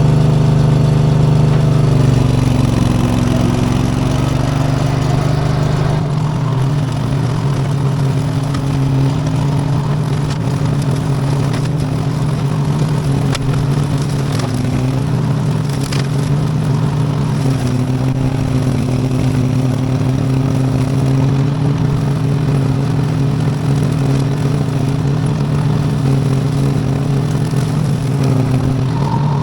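V-twin Briggs & Stratton engine on a converted garden tractor running steadily under load while driving a bush hog mower; its note drops slightly about two seconds in, then holds steady.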